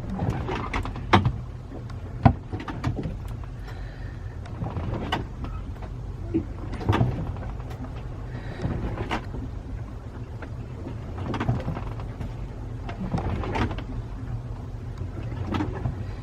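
Sailboat's cabin creaking, with scattered knocks and clatters over a steady low hum, as the boat rolls at anchor in a passing ferry's wake.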